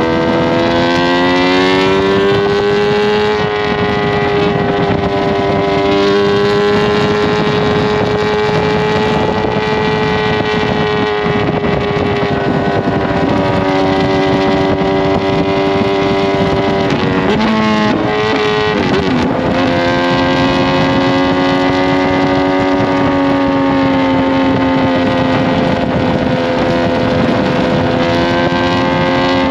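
2020 Kawasaki Z H2's supercharged inline-four, breathing through an SC-Project CRT exhaust with Akrapovic headers, running hard at road speed. Its note rises a little in the first few seconds and then holds steady. About two-thirds of the way through it breaks and dips for a couple of seconds, then settles into a steady note again.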